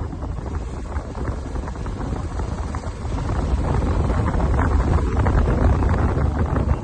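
Wind buffeting the microphone: a steady rushing noise with a heavy low rumble, growing a little louder about three seconds in.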